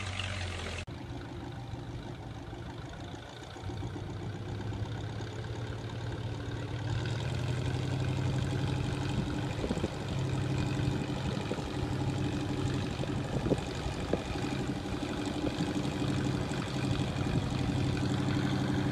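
A heavy machine's engine running steadily, its low hum growing a little louder about halfway through, with a few faint knocks.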